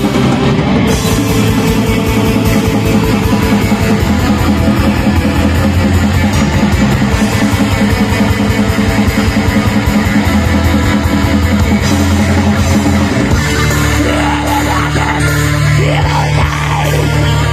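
Live black metal band playing: distorted electric guitars over a drum kit. About 13 seconds in, the riff changes to a held low chord.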